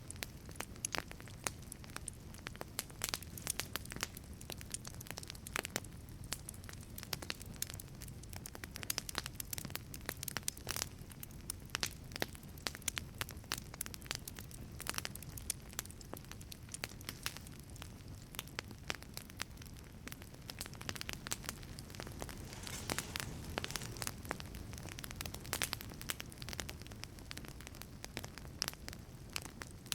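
Wood fire burning in a wood-fired pizza oven: a steady low rumble of flames with frequent irregular crackles and pops from the burning wood.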